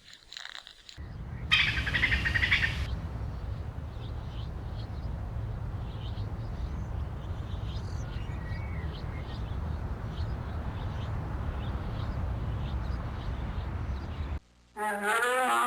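Small birds chirping over a steady low rumble, with a loud burst of dense chirping near the start and fainter chirps after it. A cow starts mooing near the end.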